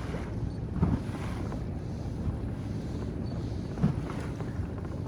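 Inflatable boat running through rough waves: steady wind rumble on the microphone with water noise, and two short thumps, about one second in and just before four seconds in.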